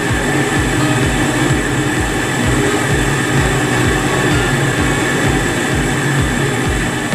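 Top-load washing machine running through its wash cycle: a steady, loud mechanical running noise with a fast, regular low pulsing underneath.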